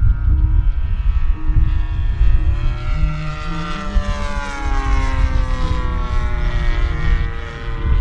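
Radio-control model airplane's engine and propeller buzzing past on a very low pass, its pitch falling as it goes by, over a low rumble.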